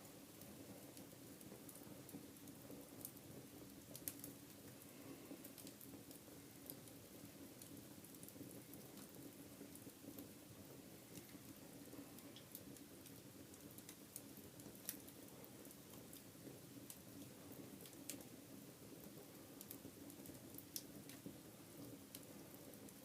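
Wood fire in a fireplace crackling faintly, with irregular sharp pops and ticks over a low steady hum.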